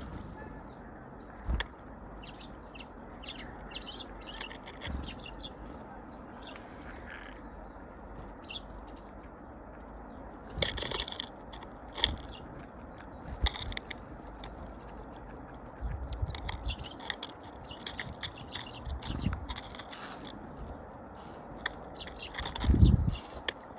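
Small birds chirping in short repeated calls throughout, with occasional knocks and a louder dull thump near the end.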